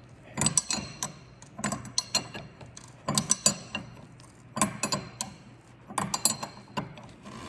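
Wrench on a nylock strut top nut, clicking metallically in five short bursts about a second and a half apart as the nut is tightened stroke by stroke.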